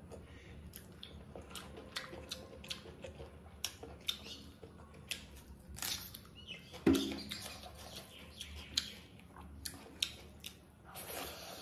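Close-up eating sounds: chewing, lip-smacking and wet mouth clicks as rice and chicken curry are eaten by hand, with one louder sharp sound about seven seconds in.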